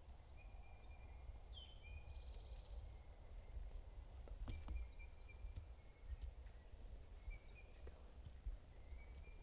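Woodland ambience: scattered songbird calls, thin high whistles and a short trill, over a low rumble, with a couple of faint clicks about halfway through.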